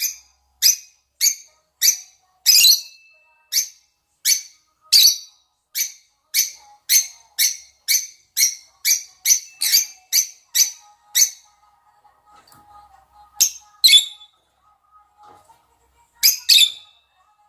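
Lovebirds, rosy-faced and Fischer's, giving short, shrill, high calls in a steady series of about two a second, breaking off about eleven seconds in and resuming with a few more calls near the end. These are mating calls.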